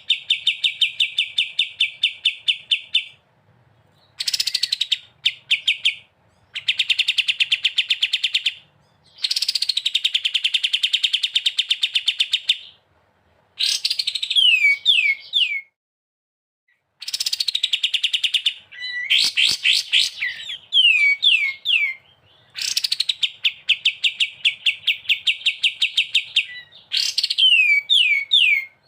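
Recorded songbird singing fast rapid-fire trills of about ten notes a second, in bursts of two to four seconds with short pauses between, several ending in three or four downward-slurred whistles. It is a masteran recording of the kind played to caged songbirds to teach them song.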